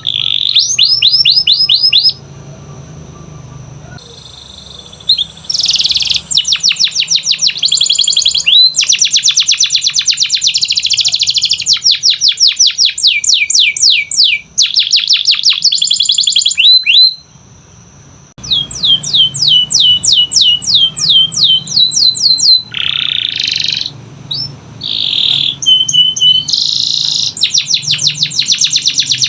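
Canary singing: fast trills of short sweeping notes, several a second, in runs broken by brief pauses, with a few buzzy, rolling phrases in the second half.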